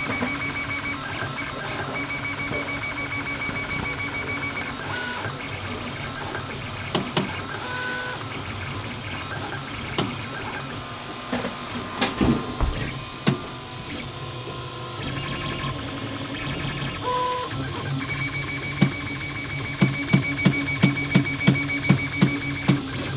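A newly built 3D printer running, its stepper motors whining in tones that change as the axes move. From about 20 s in, the extruder knocks with sharp regular clicks, two or three a second. This is the fault that is being chased down.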